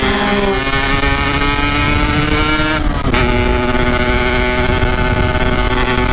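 Yamaha RX-King's 135 cc single-cylinder two-stroke engine at high revs while riding, its pitch climbing slowly. About three seconds in it dips sharply, then settles a little lower and holds steady.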